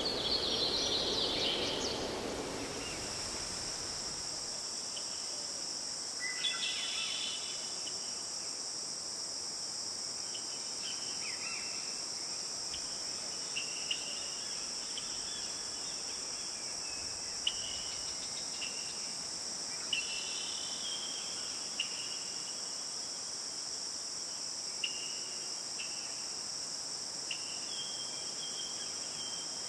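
Forest ambience: after a brief swell of noise, a steady high insect chorus sets in about two seconds in and holds, with short bird chirps scattered over it.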